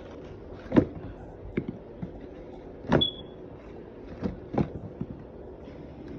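Small objects being handled: about five short knocks and clatters, one near the middle followed by a brief high ring, over a steady low hum.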